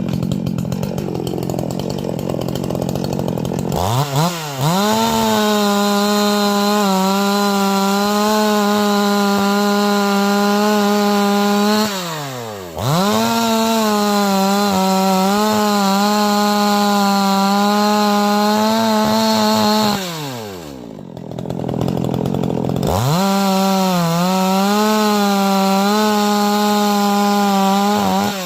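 Oleo-Mac 56 two-stroke chainsaw engine revved to full throttle three times, held steady at a high pitch for several seconds each time (around 12,500 rpm), dropping back toward idle between runs.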